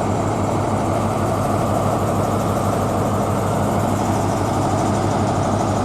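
Class 43 HST power car's diesel engine idling steadily at the platform, a constant low hum with no change in pitch.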